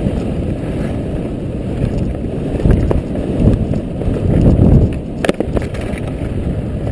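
Wind buffeting the microphone and skis sliding on snow during a downhill run: a loud, steady low rush that swells between about three and five seconds in, with a brief sharp click a little after five seconds.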